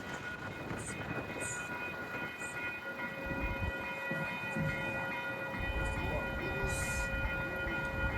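MBTA commuter rail train approaching, its low rumble coming in about three seconds in and growing louder near the end, over a steady high-pitched tone.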